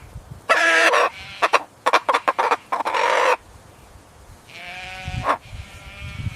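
Animal calls: a loud pitched call about half a second in, then a fast run of sharp clucking strokes, and a second, softer call near the end.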